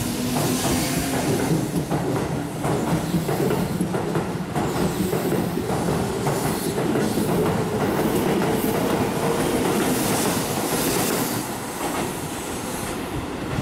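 Keihan 8000 series electric train moving along a station platform: wheels clacking over rail joints over a steady running tone. The sound drops off near the end.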